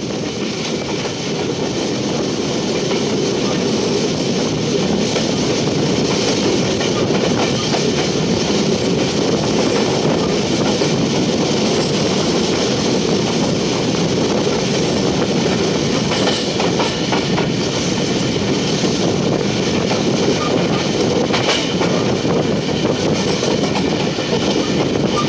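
Goods train of container wagons running on the track, heard from the train itself: a steady rumble of wheels on rail with faint clicking over the rail joints. It grows a little louder over the first two seconds, then holds steady.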